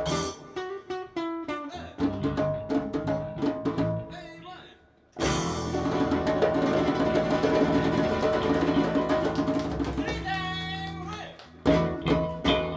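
Live acoustic band of guitar, bass and percussion playing the final bars of a slow song: the music stops briefly about four and a half seconds in, then comes back as a long ringing chord, with a held sung note near the end and a few last sharp accents.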